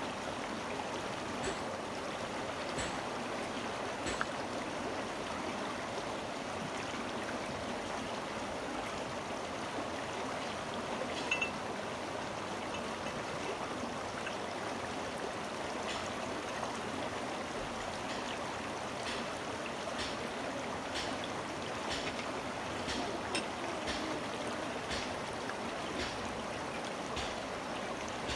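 Steady rush of a flowing stream, with scattered light clicks and taps.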